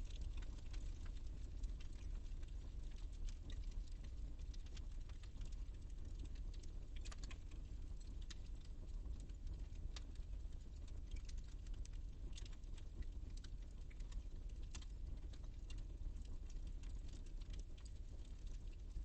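Wood fire in a fireplace crackling, with irregular snaps and pops over a low steady rumble of the flames.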